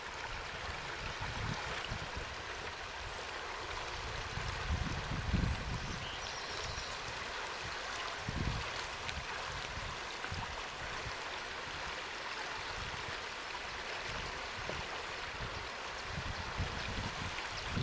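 River water rushing steadily around a kayak, with irregular low rumbles and bumps, the strongest about five seconds in and again a little after eight seconds.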